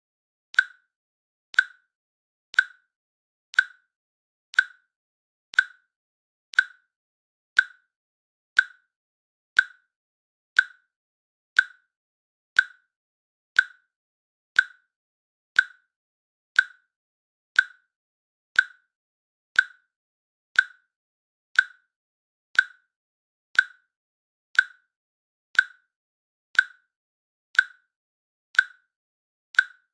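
Countdown timer's electronic click, one short sharp tick each second, marking the seconds as they count down.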